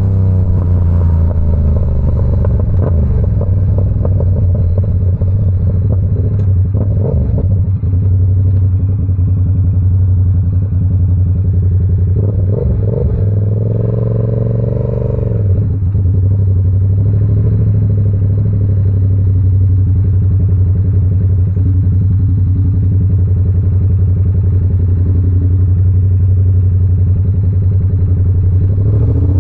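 Yamaha R7's 689 cc parallel-twin engine through an SC Project CR-T aftermarket exhaust, riding at a steady pace. The note holds steady for most of the time, with a fall and rise in revs about halfway through.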